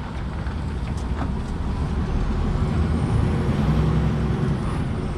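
Articulated lorry's diesel engine running as the truck pulls slowly out of a tight spot, growing a little louder as it goes, with a couple of faint clicks about a second in.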